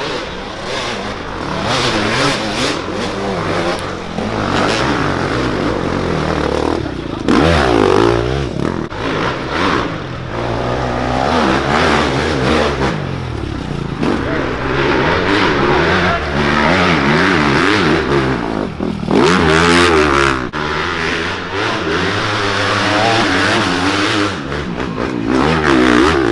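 Dirt bike engine revving up and down again and again as it is ridden hard, the pitch rising and falling every second or two over a steady rush of noise.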